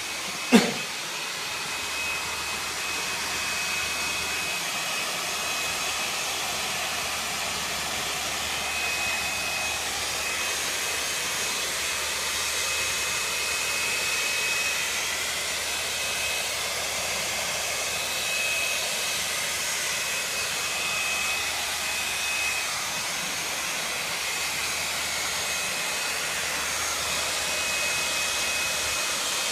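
Handheld hair dryer blowing steadily, with a high fan whine over the rush of air. A short thump sounds about half a second in.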